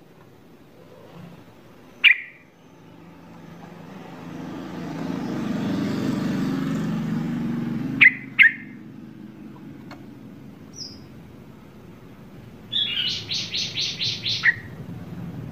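Birds chirping: a few single sharp chirps, then a quick run of about seven high notes near the end. A low rumble builds and fades in the middle.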